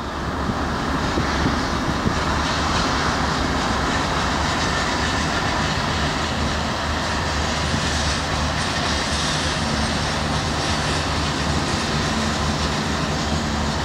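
Union Pacific freight train of refrigerated boxcars passing at track speed: the loud, steady noise of its cars rolling over the rails.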